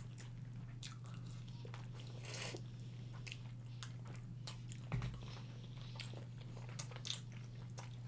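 Close-miked eating sounds of two people biting and chewing hot chicken wings: scattered short wet smacks and clicks, over a low steady hum. One soft thump about five seconds in.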